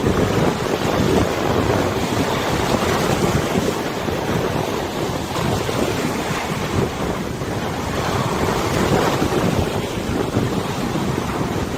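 Wind gusting across the microphone over the steady wash of river waves.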